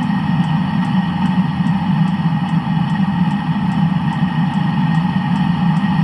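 Land Rover engine, just back from an engine block repair, running steadily at idle, with a faint, fast, regular ticking over it.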